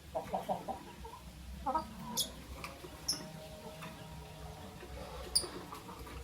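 Lovebirds calling. A quick run of about five short, low chattering notes comes right at the start, then a cluster of notes, and a few brief, sharp high chirps follow; the loudest chirp comes near the end.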